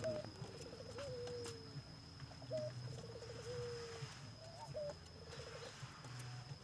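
Ringneck doves cooing: a string of soft, rolling, trilled coos, each trailing off in a falling note.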